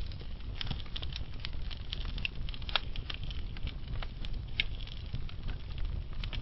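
Wood fire burning in a fireplace: a steady low rumble of the flames with frequent small crackles and two sharper pops, one about midway and one a little later.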